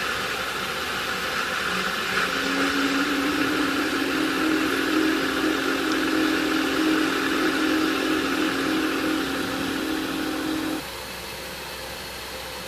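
Electronic 'space sound' drone presented as the sound of Jupiter's moons Himalia and Kore: a steady hissing drone, with a low steady hum that joins about two seconds in and stops suddenly near eleven seconds, leaving a quieter hiss.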